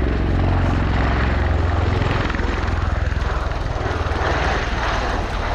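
Boeing CV-22B Osprey tiltrotor flying past as it converts to helicopter mode and slows down, its big proprotors beating heavily with a deep rapid pulse. The low beat eases after about two seconds while a broad rushing noise swells.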